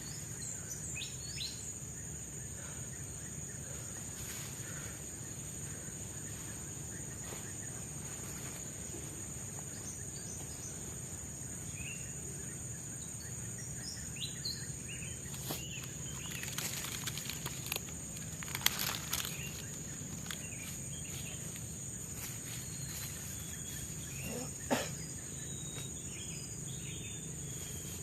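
Forest ambience: a steady high-pitched insect drone with scattered short bird chirps. A cluster of brief rustles and clicks comes about halfway through, and a single louder knock near the end.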